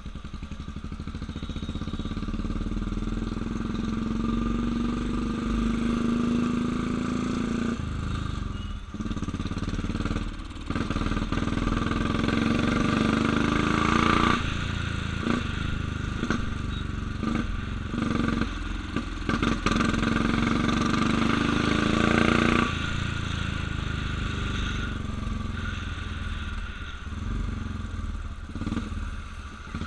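Motorcycle engine under way, pulling up in pitch as it accelerates, easing off about 8 seconds in, then climbing again and dropping away sharply as the throttle closes about three-quarters of the way through.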